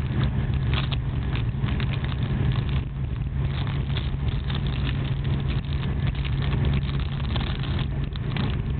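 Running noise of a TGV high-speed train heard inside a passenger car: a steady low rumble with frequent light clicks and rattles over it.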